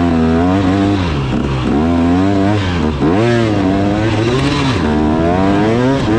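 KTM 300 two-stroke dirt bike engine under way, its pitch falling and rising several times as the throttle is rolled off and back on.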